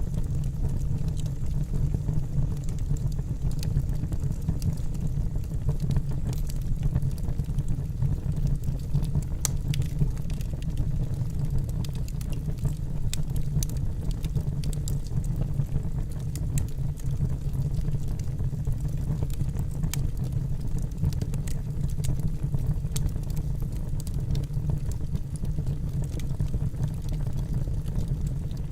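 Wood fire burning in a fireplace, with logs crackling and popping in scattered sharp snaps over a steady low rumble.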